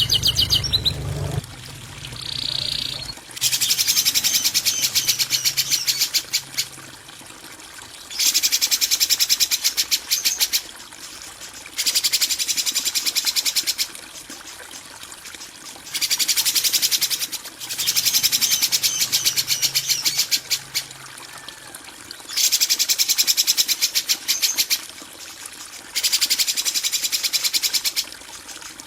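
Recorded songbird calls of the harsh 'kasaran' kind used to tutor cage birds: repeated rapid, rattling, high-pitched chatter in bouts of two to three seconds, with short pauses between them.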